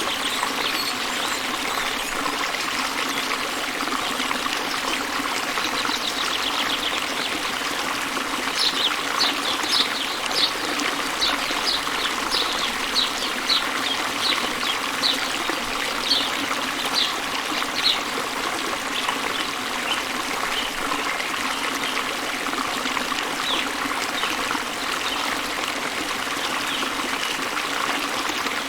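Steady rush of falling water from a waterfall, with a bird chirping over it: a run of short, high, slightly falling chirps at about two a second from about nine to eighteen seconds in, and fainter scattered chirps before and after.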